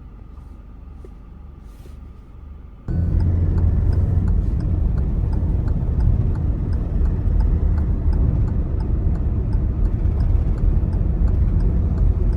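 Hyundai Tucson engine running loud and close, starting abruptly about three seconds in, with a steady low rumble and a light, regular ticking about three times a second. The scan tool reports this engine as misfiring.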